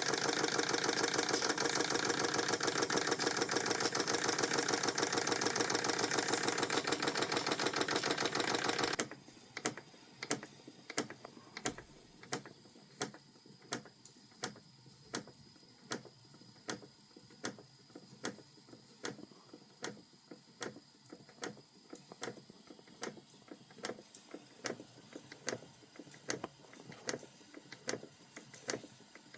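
Vintage Krick model marine steam engine running fast with a dense, even mechanical clatter that stops abruptly about nine seconds in. After that come only sparse sharp clicks, about two a second.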